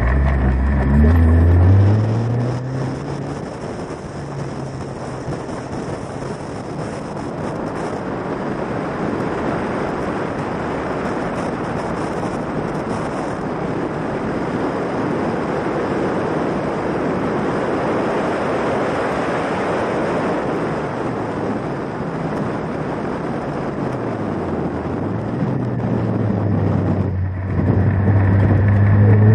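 Ariel Atom's supercharged Honda four-cylinder engine accelerating hard at first, then heavy wind rush over the open cockpit drowns the engine for most of the time. Near the end the engine note drops and climbs again under power, loud, with a brief break like a gear change.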